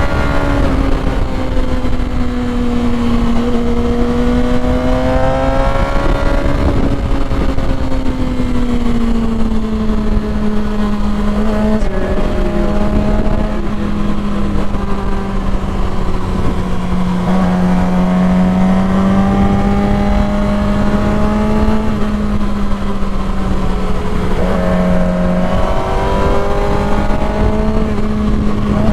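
Motorcycle engine running under way at fairly steady revs, its pitch drifting slowly up and down with a brief change about twelve seconds in, over a constant rush of wind noise on the microphone.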